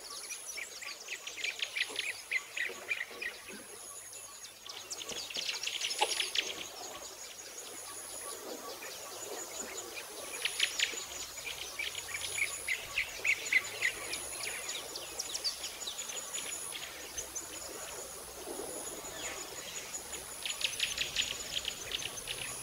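Small birds chirping in quick trilled bursts, a burst every few seconds, over a faint high-pitched whine that comes and goes.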